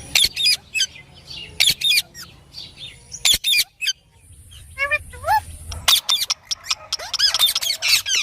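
Indian ringneck parakeet giving short, shrill squawks and chirps in quick clusters, about one cluster every second or so.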